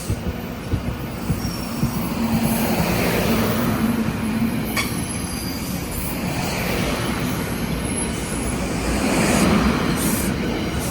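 NJ Transit train running along the rails: a steady rumble with a few knocks in the first two seconds and faint, brief high-pitched wheel squeals.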